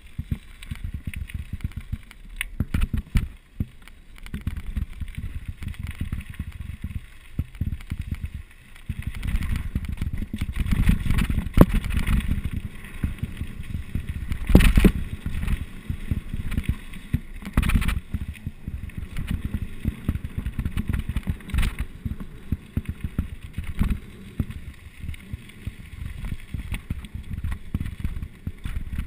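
Mountain bike riding downhill over rough trail: wind buffeting the microphone and tyre rumble, with many short rattles and knocks from the bike and one hard knock about halfway through.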